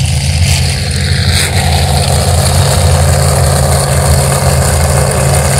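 A pack of demolition derby cars running together on the track, their engines blending into one loud, steady low drone with some revving. A couple of brief crackles come in the first second or so.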